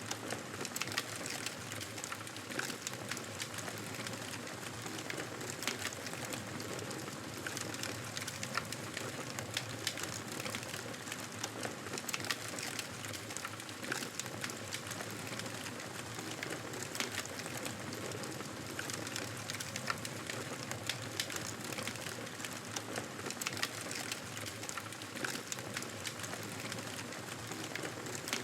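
Campfire burning, a steady hiss with frequent small pops and crackles.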